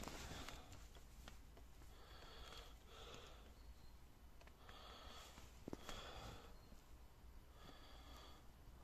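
Near silence with faint breaths close to the microphone, a soft puff every one to two seconds.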